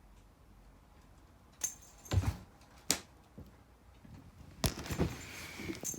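Cats pouncing on a cat teaser toy: several sharp knocks and thuds in two clusters, about two seconds in and again near the end, with a light metallic jingle.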